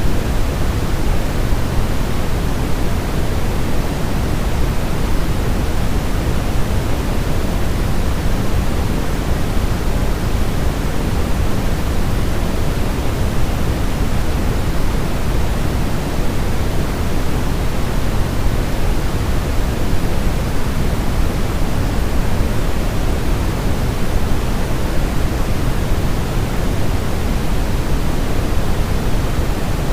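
Steady, unchanging synthetic white noise: a deep, even hiss weighted toward the low end.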